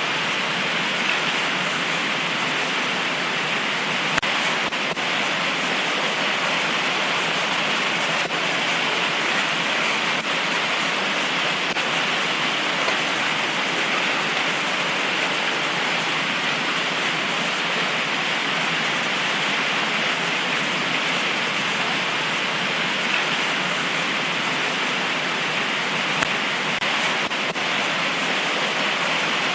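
Heavy tropical rain pouring steadily, with a couple of sharper drop ticks.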